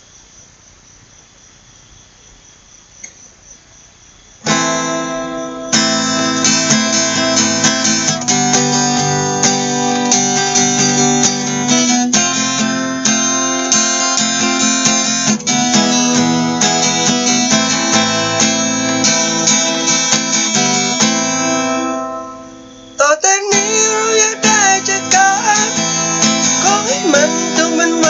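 Crickets chirping steadily. About four seconds in, an acoustic guitar starts strumming an intro. It drops away briefly near the end and comes back with notes that slide in pitch.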